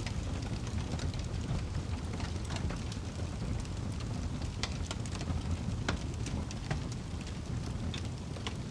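Wood fire burning in a fireplace: a steady low rumble of flames with scattered sharp crackles and pops from the burning logs, a few louder pops in the second half.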